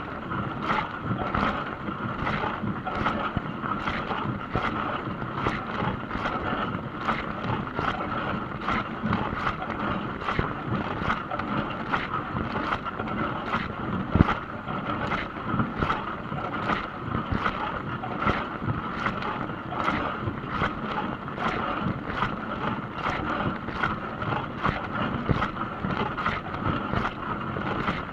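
Dishwasher running a wash cycle: a steady rush of water sprayed and splashing inside the tub. A regular swish repeats somewhat under a second apart, as the spray arm sweeps round.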